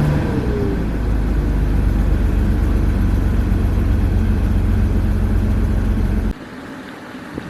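BMW 750iL's 5.4-litre V12 running at idle just after starting, a steady low rumble with a short falling whine in the first second. About six seconds in the sound drops abruptly to a much quieter hum.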